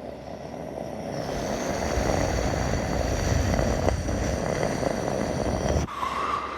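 Boeing 747's four jet engines on approach: a rushing jet noise with a high whine that grows louder as the airliner nears. It breaks off abruptly near the end.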